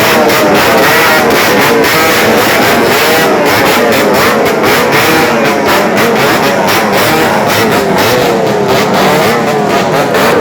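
Many motorcycles with open, unmuffled exhausts, two-strokes among them, revving in a crowd, their overlapping engine notes rising and falling with sharp crackles in between.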